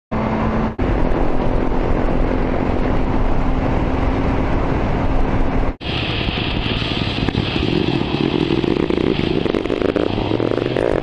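Motorcycle engine running while riding, with wind and road noise; it holds a steady note at first, then pulls and rises in pitch as the bike accelerates from about six seconds in. The sound cuts out briefly twice.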